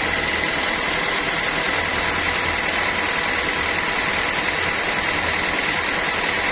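Sawmill saw running steadily, a constant mechanical drone with a thin, high steady whine.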